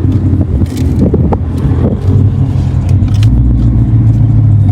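A moving car's engine and road noise, a steady low drone.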